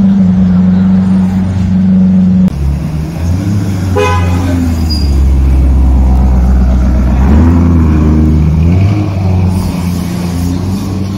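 A Lamborghini Aventador's V12 idling steadily, then, after a sudden cut, a Lamborghini Urus's twin-turbo V8 running with a deep low rumble. Its engine note rises and falls a couple of times, and a short car-horn toot sounds about four seconds in.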